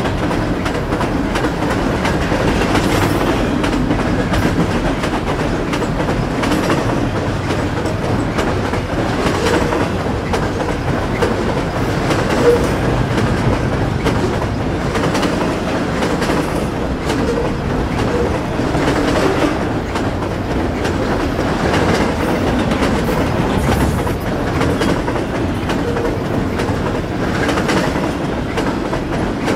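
Long BNSF double-stack intermodal freight train rolling past, its wheels clacking steadily over the rail joints with a constant rumble.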